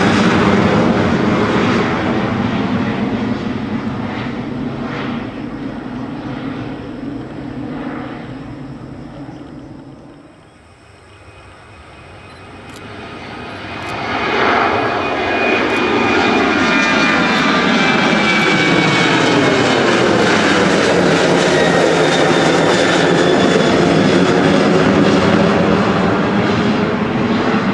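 Boeing 737 jet engines at takeoff thrust. The loud jet noise fades to a low point about ten seconds in, then rises sharply again about fourteen seconds in and stays loud, with slowly sweeping tones as the aircraft passes.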